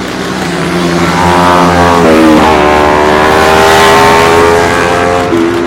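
Motorcycle accelerating past, its engine pitch rising, dropping once at an upshift about two seconds in, then climbing again. Loudest in the middle and fading near the end.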